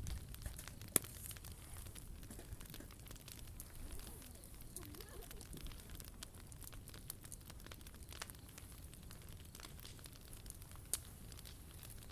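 Wood fire crackling in a POMOLY T-Brick Ultra stove, with many small scattered pops and two sharper snaps, about a second in and near the end.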